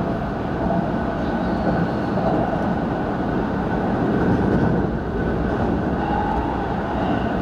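Keihan 3000 series electric train running at speed, heard from inside the front car: a steady rumble of wheels on rail with a faint, thin high tone above it.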